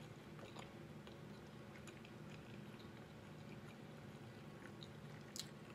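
Faint close-mouthed chewing of a mouthful of chicken pot pie, with small scattered mouth clicks and one sharper click near the end.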